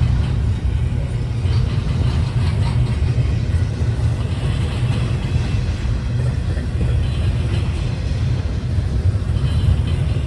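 Train running with a steady, loud low rumble and a noisy hiss above it.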